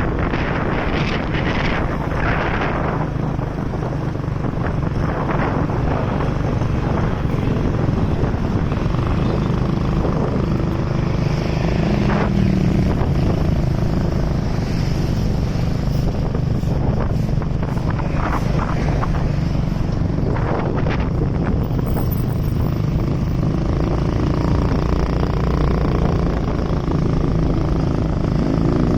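Motorcycle engine running steadily on the move, under a steady rushing of air and road noise.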